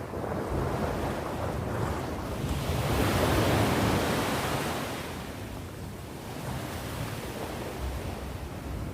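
Ocean waves breaking on the shore, one wave swelling to a loud wash a few seconds in and then receding, with wind rumbling on the microphone.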